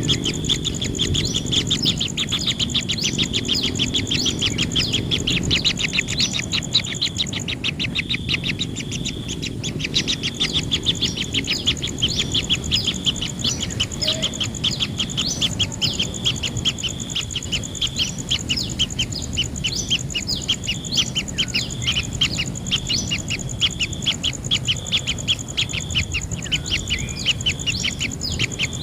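Kingfisher nestlings calling in the nest burrow: short chirps repeated rapidly, several a second, without a break, over a steady high-pitched hum.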